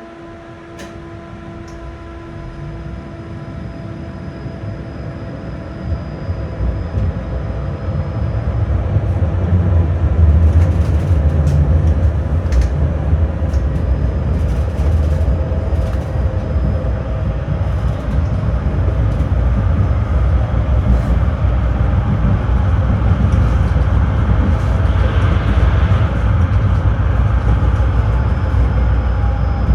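Tram running on its rails. A low rumble of wheels and motors grows louder over the first ten seconds as it picks up speed, then runs steadily with scattered clicks.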